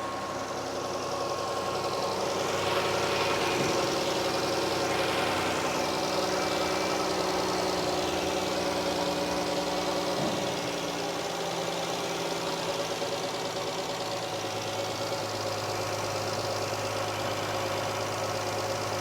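The 2014 Chrysler Town & Country minivan's 3.6-litre V6 running at idle just after a restart following repair work, its level climbing over the first few seconds and then holding steady.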